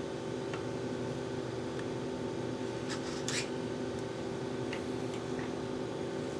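A steady mechanical hum of several even tones, with a few light clicks and rubbing sounds from small parts being handled, the clearest a pair of clicks about three seconds in.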